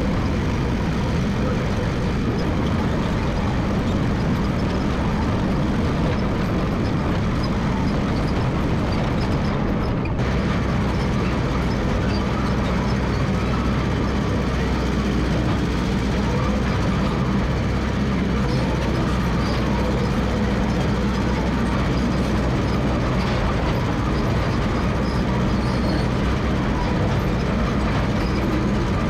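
Massey Ferguson MF 300 crawler dozer's diesel engine running steadily under work. About ten seconds in its note dips briefly, then settles deeper.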